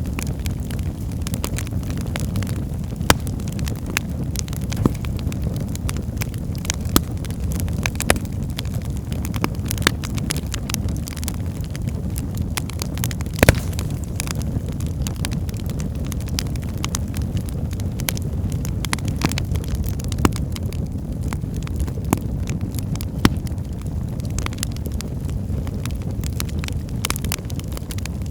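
Wood fire burning in a fireplace: a steady low rumble of the flames with frequent small crackles and pops, and a handful of louder sharp pops scattered through.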